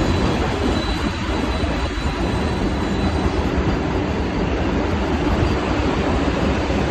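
Vande Bharat Express electric train running by at close range: a loud, steady rumble of wheels on the rails.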